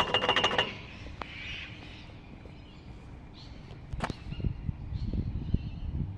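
Pedestrian crossing signal ticking rapidly, about eight ticks a second, and stopping under a second in. Quieter street noise and soft thuds follow.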